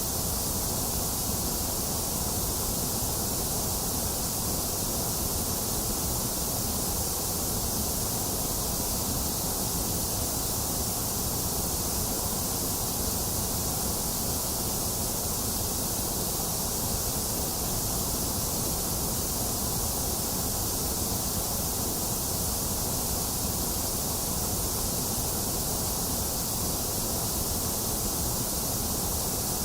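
Box fan running steadily, blended with a constant hiss of rain and no thunder. It is an even, unchanging noise, full in the low end and hissing in the high end.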